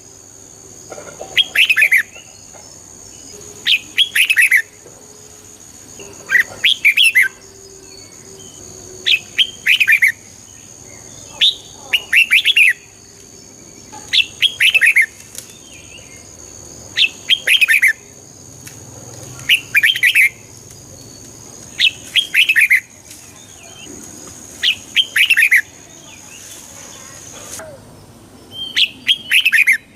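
Red-whiskered bulbul singing short bursts of quick, clear whistled notes, repeated about every two to three seconds. A steady high-pitched whine runs underneath and stops shortly before the end.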